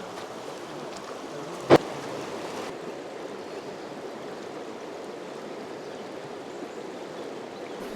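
Steady rush of the River Mellte's flowing water, with one sharp knock a little under two seconds in.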